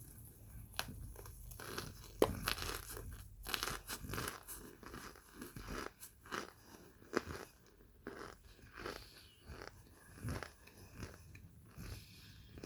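Crunching and chewing of microwave-baked cornstarch chunks, close to the microphone: irregular crisp bites and crunches, the loudest a little after two seconds in.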